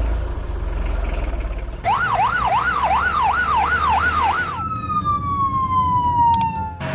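A low rumble, then a police-car siren sound effect yelping up and down about three times a second for nearly three seconds, followed by one long falling tone that cuts off suddenly.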